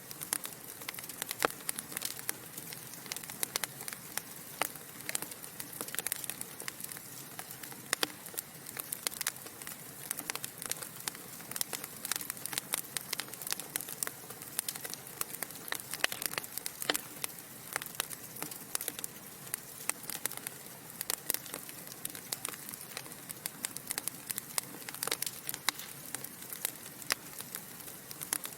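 Wood fire burning in a fireplace, the logs crackling and popping in quick, irregular snaps over a soft steady hiss.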